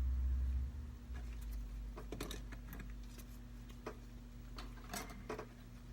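A few light clicks and taps of small iPad parts being handled and fitted together in a dry test, over a steady low hum.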